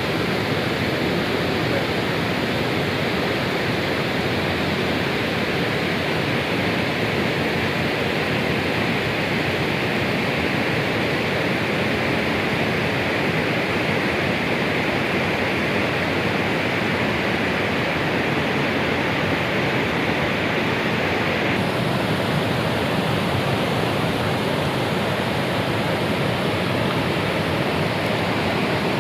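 Waterfall: falling water rushing in a loud, steady, dense hiss, its high end shifting slightly about three-quarters of the way through.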